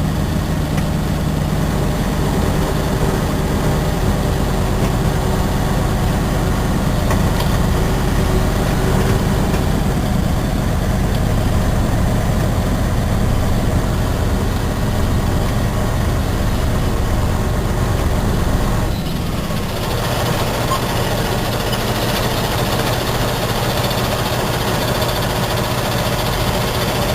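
Heavy diesel engine of a cement tanker truck running steadily; about two-thirds of the way through its deepest rumble drops away and the sound shifts to a lighter, higher running note.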